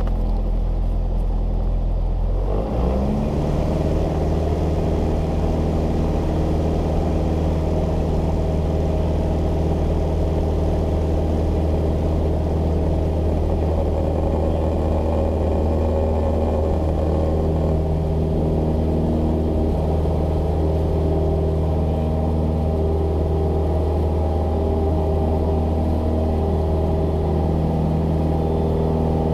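Cessna 172S Skyhawk SP's four-cylinder Lycoming piston engine and propeller running loud and steady; it speeds up about two and a half seconds in, then holds at the higher speed.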